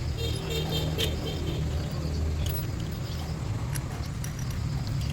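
A vehicle engine running steadily with a low rumble, with a few sharp clicks over it.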